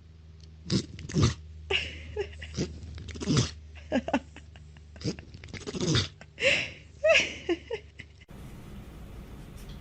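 A dog sneezing over and over: a rapid run of a dozen or so short, sharp sneezes that stops about eight seconds in.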